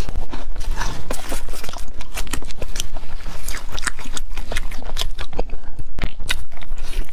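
Close-miked biting and chewing of fried red bean bread, its fried crust crunching in many quick, sharp crackles, with a fresh bite at the start and another near the end.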